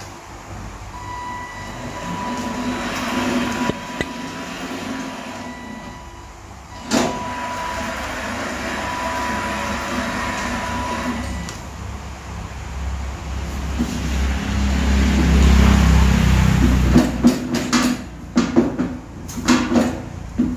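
Homemade 1/5-scale Volvo A30G RC dump truck running. A steady motor and gear whine is broken by a sharp knock, then a low rumble builds and ends in a run of clunks and rattles.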